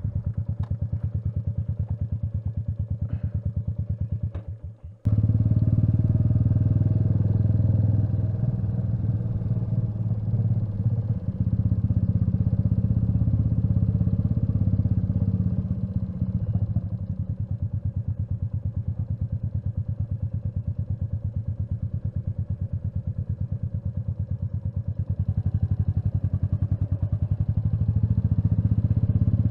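Royal Enfield Meteor 350's single-cylinder engine running with an even, pulsing beat, briefly cutting out about five seconds in and returning louder. The level eases a little in the middle and rises again near the end.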